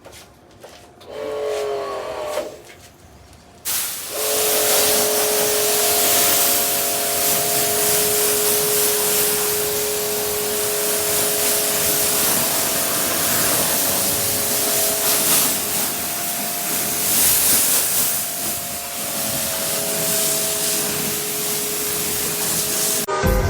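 Water jet from an electric pressure washer spraying an air conditioner: a loud, steady hiss of spray with the pump motor's hum of a few steady tones beneath it, starting about four seconds in after a brief burst about a second in.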